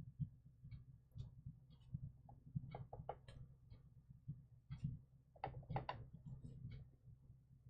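Faint scattered taps and clicks of stamping by hand: a stamp dabbed on an ink pad and pressed onto paper, over a low steady hum.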